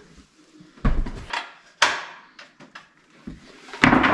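Knocks and clunks from hands and tools working loose fittings: two sharp knocks about a second apart, a few lighter ticks, then a louder scraping rush near the end.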